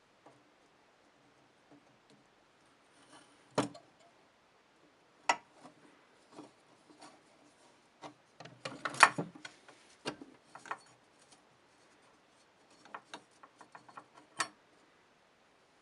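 Small parts and tools of an old scale clicking and knocking as it is taken apart: single sharp clicks now and then, with a busier clatter of handling in the middle.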